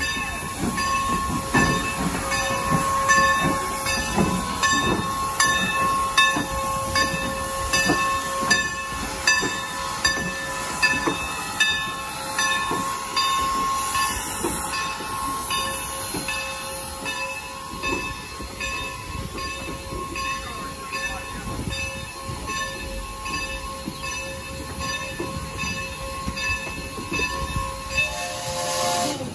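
Train moving through the station, its bell ringing steadily about one and a half strokes a second, with irregular low knocks beneath. The ringing stops shortly before the end.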